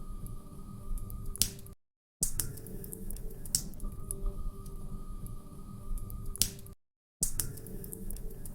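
Log fire crackling in a fireplace: sharp scattered pops over a steady low hiss. The sound cuts out to silence briefly twice, about five seconds apart.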